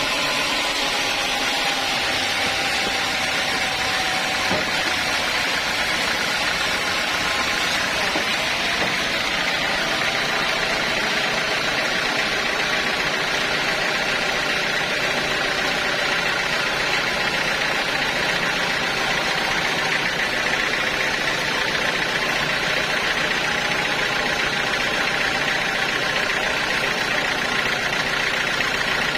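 Sawmill saw running steadily through a mahogany log, a dense even noise with a steady high whine over it.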